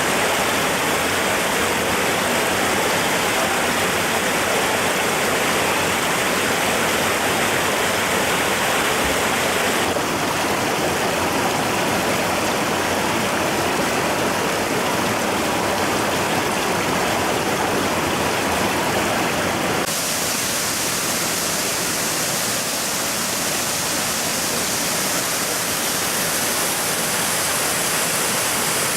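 Waterfall: a steady, loud hiss of falling water. Its character changes abruptly about ten and again about twenty seconds in.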